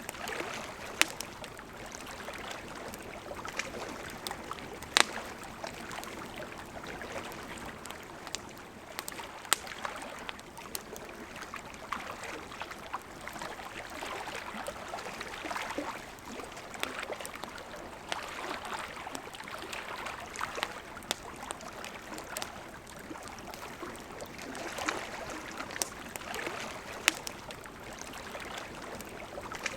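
Campfire crackling, with scattered sharp pops, a handful of them much louder, over the steady rushing of a river.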